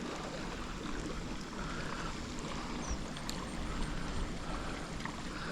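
Steady rushing of river current, an even wash of water noise without distinct splashes.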